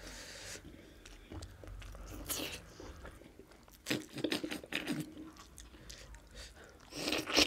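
Close mouth sounds of people eating mutton curry with rice: irregular chewing, smacking and biting, in short uneven bursts.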